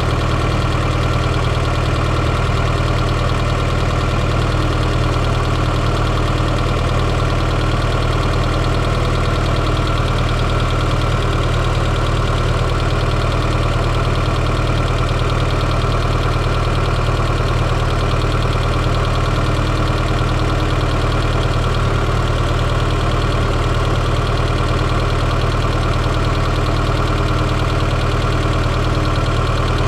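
Fiat Coupé 2.0 16V Turbo's four-cylinder turbocharged engine idling steadily, heard up close from inside the engine bay.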